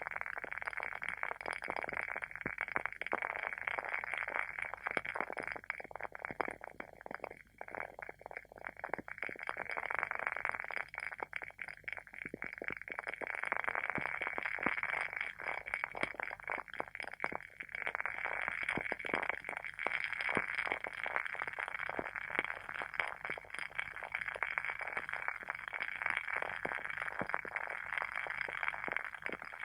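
Wooden candle wick burning with a dense, continuous crackle of fine rapid pops, like a small fire. The crackle thins out briefly a couple of times in the first half.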